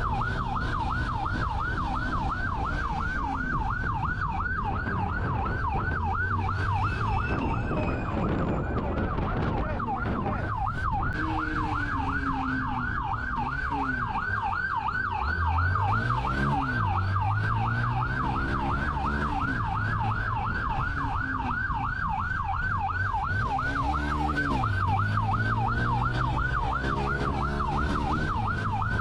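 Police car siren in its fast yelp mode, sweeping up and down about three times a second without a break, over the sound of a vehicle engine that revs up and down a few times.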